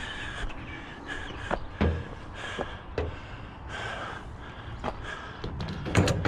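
Crows cawing several times in the background, with a few light knocks and clicks.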